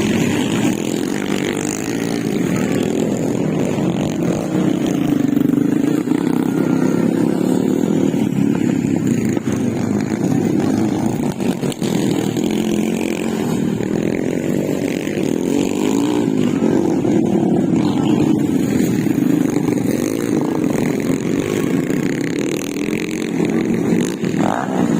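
Motocross dirt bike engines running hard throughout, their pitch rising and falling as the riders open and close the throttle.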